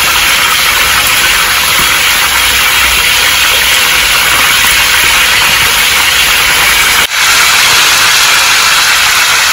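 Chicken pieces frying in hot oil in a pan: a loud, steady sizzle that breaks off for an instant about seven seconds in.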